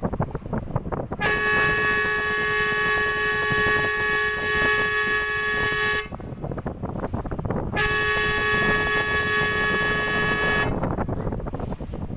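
Passenger ship's horn sounding two long blasts, the first about five seconds and the second about three, each a steady tone with a sudden start and stop. The blasts are a warning to a fishing boat blocking the ship's path to move aside.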